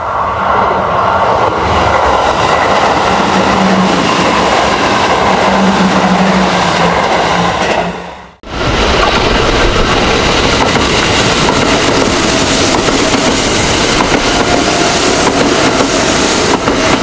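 Kintetsu 3200 series electric train passing at speed, wheels clattering over the rail joints, with a steady low tone in the first pass. About eight seconds in, the sound cuts out for an instant and a second pass follows, with clicks from the wheels over the joints.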